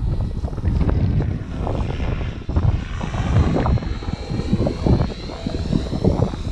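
Radio-controlled model aircraft's motor and propeller whining high, the pitch wavering and climbing around the middle as the throttle changes. Heavy wind buffets the microphone throughout.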